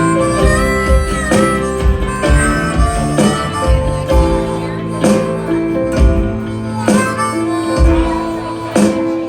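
Instrumental break of a country-blues band: a harmonica plays held, bending notes over strummed guitar, bass and a steady beat.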